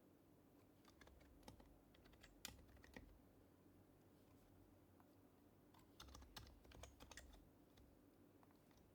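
Quiet typing on an HHKB Professional HYBRID Type-S keyboard with silenced Topre switches: two short bursts of keystrokes, one about a second in and another about six seconds in.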